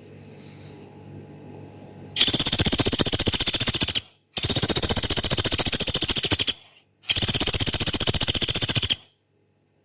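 Pelatuk beras pygmy woodpecker giving three long, rough, rapid trills of about two seconds each, a fast rattle of high notes at roughly fifteen to twenty a second, with short pauses between them.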